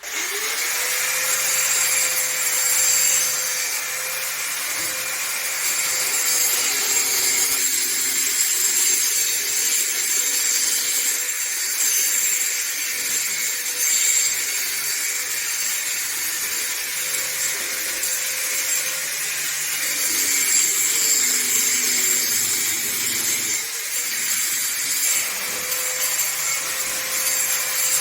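An electric power tool switching on with a rising whine as its motor spins up, then running steadily.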